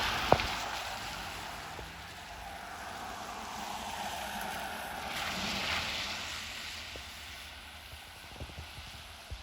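A steady rushing noise that swells about five seconds in and then slowly fades, with one sharp click just after the start.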